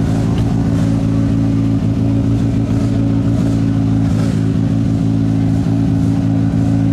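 Rally car engine running steadily at constant revs.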